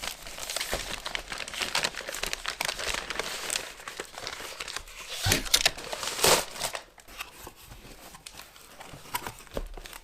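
A mailed package being torn open and unwrapped by hand: continuous crinkling and rustling of packaging, loudest about six seconds in, then quieter handling.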